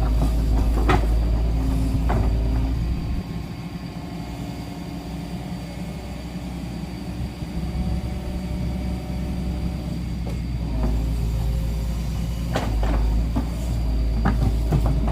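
Excavator's diesel engine running, easing off about three seconds in and picking up again near the end, with a few sharp knocks.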